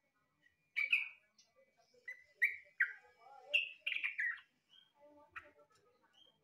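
Yellow-vented bulbul (trucukan) singing: a quick string of short, bright chirping notes starting about a second in, then two more single notes near the end.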